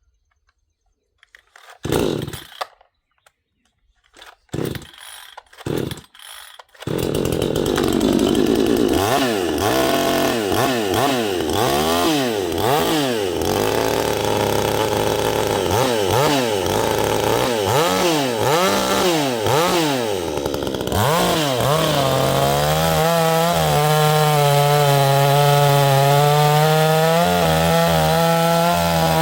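Vevor 62cc two-stroke chainsaw being pull-started: a few short cord pulls, then it catches about seven seconds in. It runs with the throttle blipped over and over, the pitch rising and falling, then holds a steadier pitch from about two-thirds of the way through.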